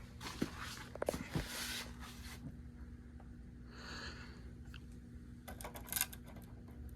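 Handling noises as thermostat wires are traced at a zoning control board: scattered clicks and short rustles, with a cluster of sharp clicks about a second in and again near six seconds, over a faint steady hum.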